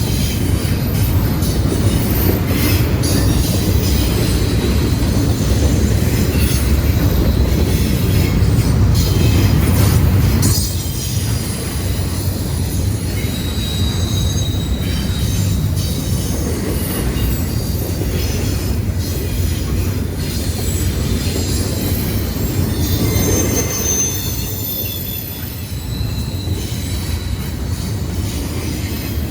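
Freight train cars rolling past at track side: a steady rumble of wheels on rail with thin high-pitched wheel squeal that comes and goes.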